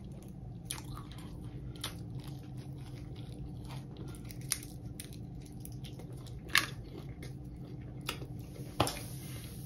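Close-up chewing of fried Hot Cheeto–crusted king crab: wet, squishy mouth sounds with scattered crunchy clicks, the loudest about six and a half and nearly nine seconds in, over a faint steady hum.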